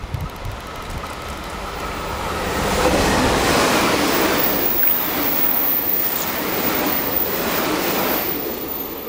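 Multi-car electric or diesel limited express train passing at speed through a station without stopping: a rushing rumble of wheels on rail that builds over the first few seconds, stays loud while the cars go by and falls away near the end.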